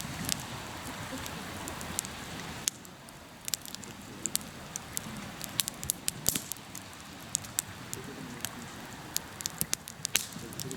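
Wood campfire crackling in a fire stand: irregular sharp pops over a steady hiss that gets a little quieter about two and a half seconds in.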